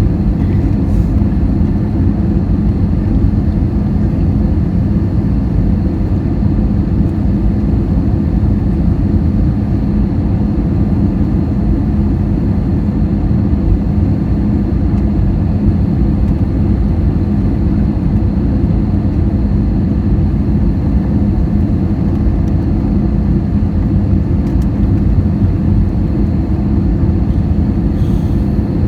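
Steady low rumble of an Air India jet airliner on its landing approach, with a constant hum and a faint high whine, unchanging throughout.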